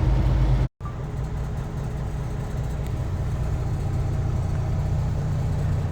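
Semi-truck's diesel engine running with a steady low drone, heard from the cab. The sound cuts out completely for an instant just under a second in, then the drone resumes a little quieter.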